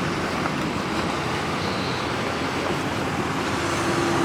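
Steady road and engine noise heard from inside the cab of a moving 2013 Ram 1500 pickup. A low steady hum joins in about three and a half seconds in.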